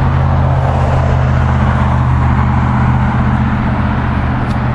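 Toro Timecutter SS4260 zero-turn mower's 22 hp Kawasaki V-twin engine running steadily at an even speed.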